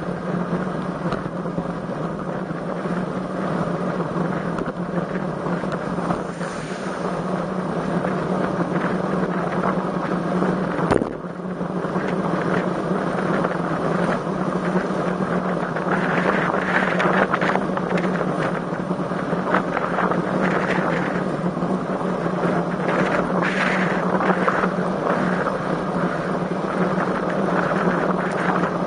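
Wind rushing over the microphone of a camera riding on a road bike, over a steady low hum, getting rougher in the second half. A single sharp knock about eleven seconds in.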